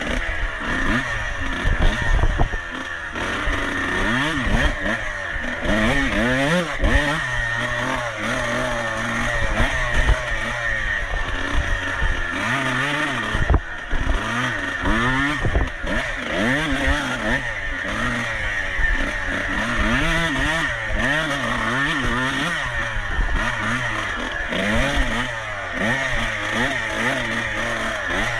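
Off-road racing motorcycle engine under race load, its revs rising and falling over and over as it is throttled and shifted, over a steady rushing noise with occasional knocks.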